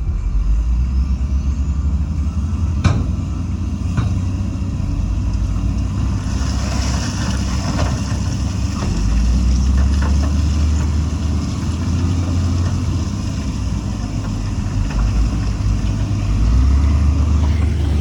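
Diesel engine of heavy earthmoving machinery running steadily and loudly, with two sharp metallic knocks about three and four seconds in and a hiss from about six to nine seconds.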